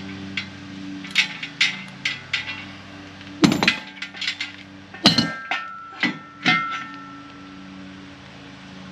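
Steel sled parts and hand tools knocking and clinking during assembly: a run of light clicks, then from about three and a half seconds in several louder metallic knocks, some leaving a short ring.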